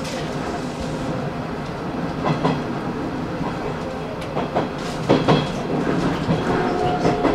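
Hanshin Railway electric local train running on the line, with steady rolling noise and sharp clacks in pairs, three times, as the wheels pass over rail joints. A steady tone comes in near the end.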